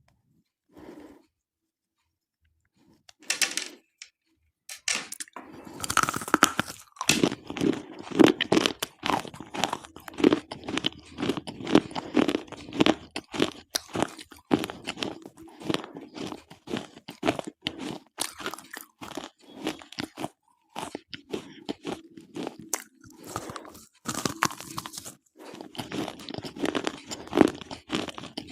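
Slate pencils being bitten and chewed close to the microphone: brittle, irregular crunching that starts about five seconds in and goes on densely, after a few soft sounds at the start.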